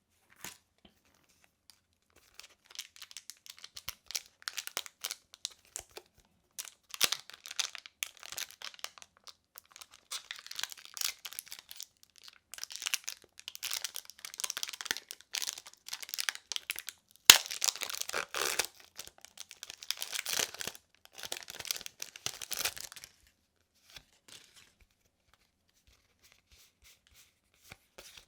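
Foil wrapper of a Pokémon TCG booster pack being crinkled and torn open by hand, in irregular bursts of crackling, with one sharp click a little past halfway.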